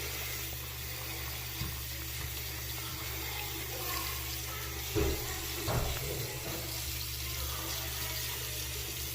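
Bathroom faucet running steadily into a basin, with a couple of short knocks about five and six seconds in.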